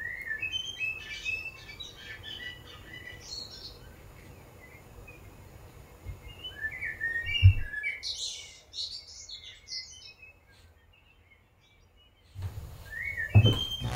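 Small birds chirping and twittering in two spells, with a single low thump about seven and a half seconds in. The sound drops to near silence for a couple of seconds near the end.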